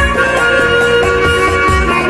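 Instrumental music: a harmonica playing held melody notes over a recorded backing track with a steady beat.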